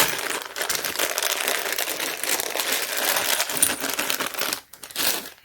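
Small metal screws clinking and rattling together as a crinkling plastic hardware bag is handled, a continuous jangling rustle that stops near the end with one more short rattle.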